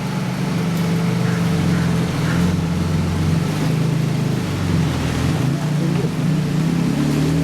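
Several high-performance car engines rumbling at low revs as supercars crawl out of a car meet, a deep steady drone with one engine's pitch rising slightly near the end.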